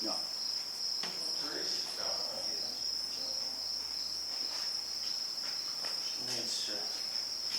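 Crickets trilling in a steady, high-pitched chorus that runs on without a break.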